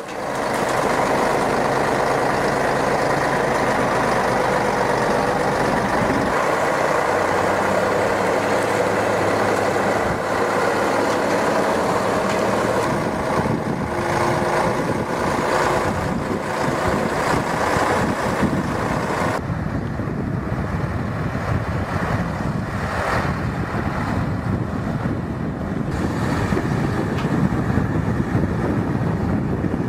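Heavy vehicle engine running steadily with a loud, continuous rumble; the sound changes about two-thirds of the way through.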